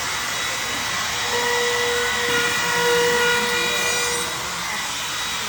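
Handheld electric trim router running at speed, trimming wood edge veneer flush. A steady whine that grows louder and more pitched from about one second in, easing back near four seconds.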